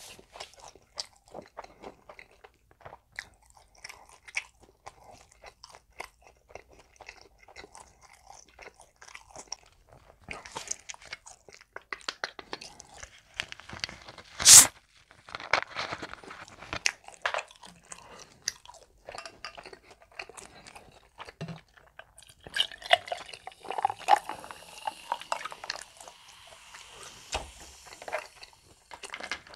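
Close-miked chewing of crispy breaded pork cutlet: irregular crunching and crackling with wet mouth sounds. One much louder sharp crack comes about halfway through.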